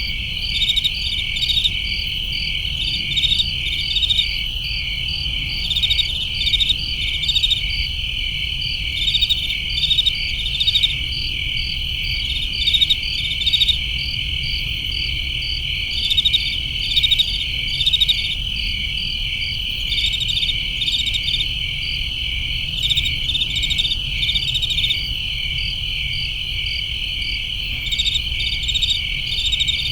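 Crickets chirping in chorus: a steady high trill with rhythmic, pulsing chirps layered over it, above a low steady rumble.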